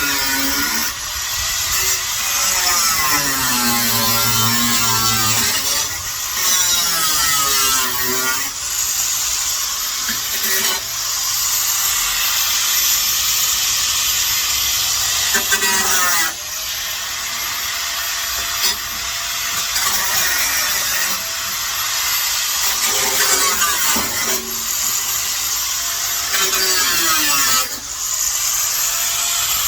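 Hand-held power tool cutting into the steel shell of a muffler, switched off and restarted several times, with its motor whine rising back up to speed at each restart.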